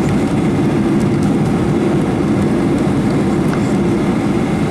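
Steady roar of a Boeing 737-800's engines and airflow, heard from inside the passenger cabin.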